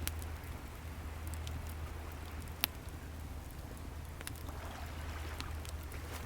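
Wood fire crackling, with scattered sharp pops, the loudest about two and a half seconds in, over the steady low rumble of ocean waves, which swell into a soft wash near the end.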